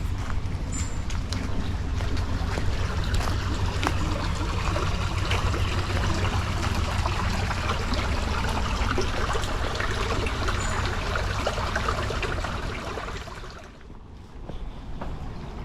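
Steady rushing outdoor noise with wind rumbling on the microphone and scattered small clicks. It drops away sharply near the end.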